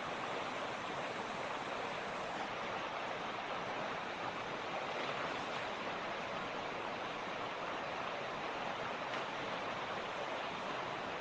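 Steady rush of a fast-flowing mountain creek (torrent), water tumbling over rocks.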